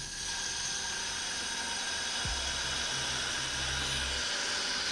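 Water running steadily into a foam cannon's plastic bottle as it is filled over the soap, a steady hiss that starts suddenly.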